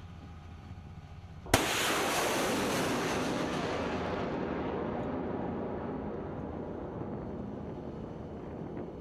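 HIMARS rocket launch: a sharp blast at ignition about a second and a half in, then the rocket motor's loud rushing roar, which fades as the rocket climbs away, its hiss dying first.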